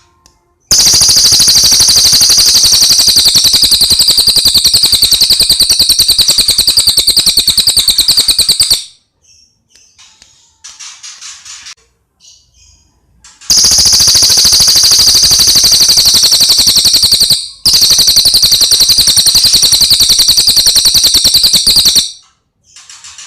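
Cililin songbird singing in three long, very fast, high-pitched trills: the first lasts about eight seconds, and the next two about four seconds each. Faint short chirps come in the gaps between them.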